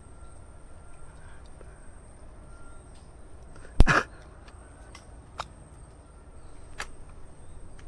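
A slingshot rifle firing: one sharp loud snap with a short rushing tail, followed by two faint clicks.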